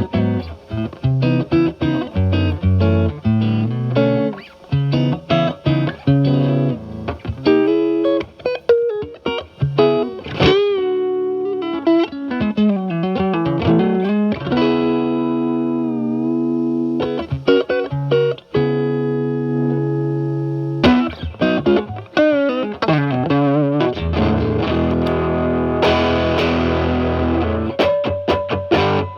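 Stratocaster with single-coil pickups played through a Paul Cochrane Timmy overdrive pedal into a Marshall Valvestate amp's clean channel: bluesy single-note licks with string bends, vibrato and held notes at low pedal gain. About three-quarters of the way through, the pedal's gain goes to maximum and the tone turns thicker and more distorted.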